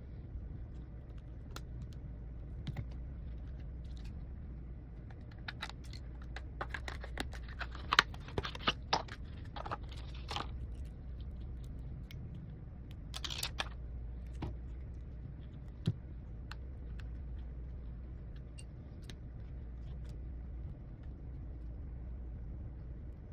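Small tools and phone parts clicking and tapping on a workbench during an iPhone 15 battery replacement. The clicks are scattered, with a busier run of louder clicks around the middle, over a steady low hum.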